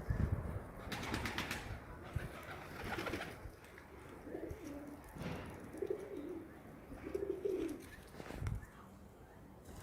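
Pigeons cooing: three low, wavering coos in the second half, after a few seconds of scattered clicks and rustling.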